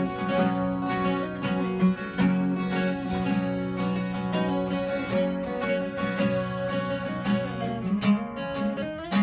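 Acoustic guitar strummed in a steady country rhythm: the instrumental intro of a country song, played live before the vocals come in.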